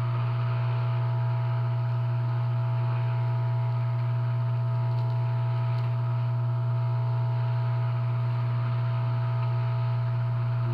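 Hot-air rework station running steadily while an SMD resistor on the TV's T-con board is heated to desolder it: an even rush of air with a strong low hum and a couple of steady tones.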